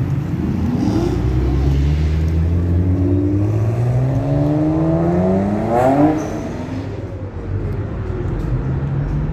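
A supercar's engine revving up as it accelerates past. The pitch climbs for several seconds to its loudest about six seconds in, then drops as the car pulls away, over a low steady engine rumble.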